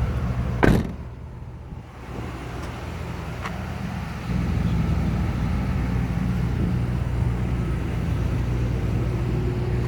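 A car door shuts with a single sharp thump about a second in. A vehicle engine then idles steadily with a low hum, getting louder about four seconds in.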